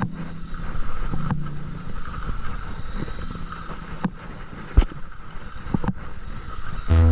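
Boat under way at sea: a steady engine hum mixed with wind and water noise, broken by a few sharp knocks. Music comes in near the end.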